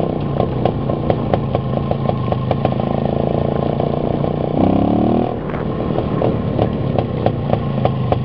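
IZh two-stroke motorcycle engine running under way, with regular sharp ticks about three times a second. About halfway through the revs climb briefly, then drop off abruptly.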